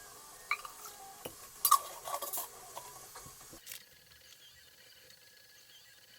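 Small hard objects clinking and clattering as they are handled: a handful of light knocks, the loudest a little under two seconds in, then it goes quiet after about four seconds.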